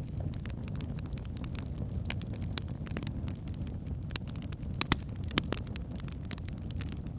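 Wood logs burning in a fireplace: a steady low rumble of flame with scattered sharp crackles and pops, the loudest a little before five seconds in.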